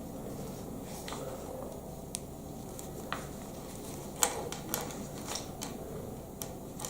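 Small hard plastic clicks and taps of Lego Technic parts being handled and pushed together, coming irregularly and most often in the second half, over a steady low hum.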